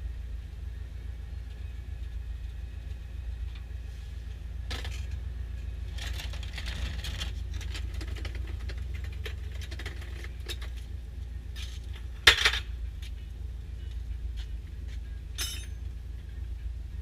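Metal clinking and rattling over a steady low rumble, with one sharp, loud clank about twelve seconds in. The clinks are typical of hand tools and metal parts being handled during an oil change.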